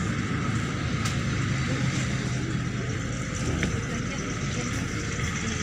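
Neman city bus under way, heard from inside the passenger cabin: a steady low engine drone with road and body noise.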